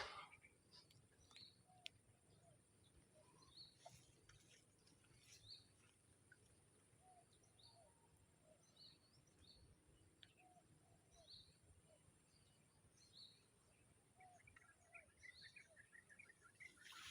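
Near silence outdoors with faint bird chirps repeating every second or two and a faint steady high hum.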